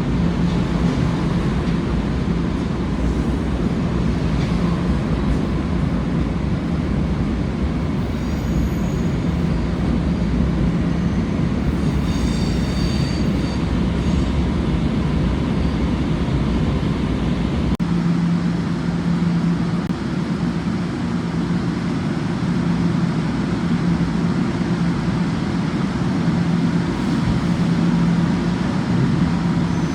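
Passenger train running on the rails with a steady rumble and hum. A brief high-pitched wheel squeal comes about twelve seconds in, and the deepest rumble drops away at about eighteen seconds.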